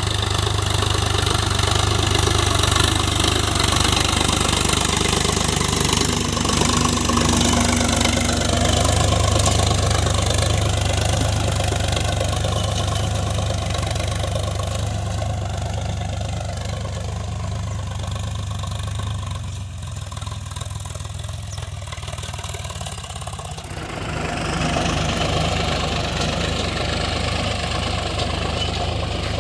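Tractor engine running steadily as it pulls a plough. It eases off a little about twenty seconds in, then changes sharply about four seconds before the end.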